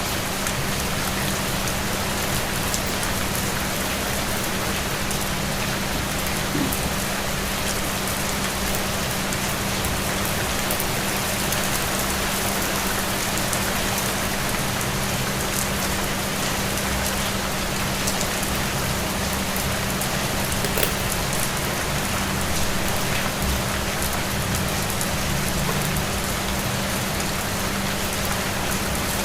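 Steady rain falling on a surface, with scattered individual drop ticks, over a steady low hum.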